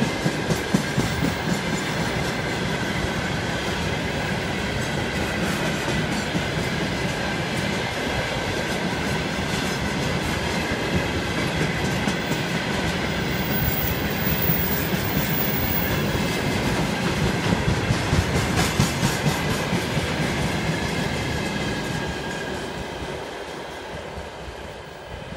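Freight train of railway tank wagons rolling past close by, wheels clicking over the rail joints in bursts, with a steady high ringing over the rumble. The noise fades near the end as the last wagons move away.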